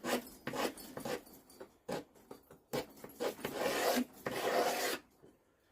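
Utility-knife blade scraping along a wooden hammer handle: several short strokes, then two longer, louder draws, taking off old grime and wood.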